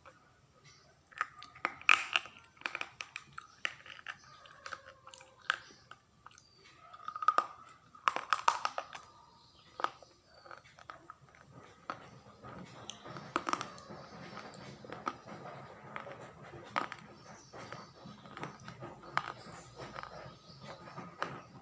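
Crunchy food being chewed in a full mouth: a run of sharp crunches and bites, loudest in clusters about two seconds and eight seconds in, then a steadier stream of smaller crunches.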